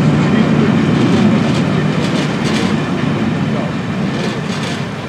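Railway passenger coaches rolling past slowly: a steady rumble of wheels on rails with faint clicks over the rail joints, fading gradually as the train moves away.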